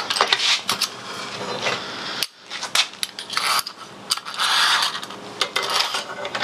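Heavy-gauge wire being bent into a loop with hand tools: a string of sharp metallic clicks and knocks mixed with short scraping sounds.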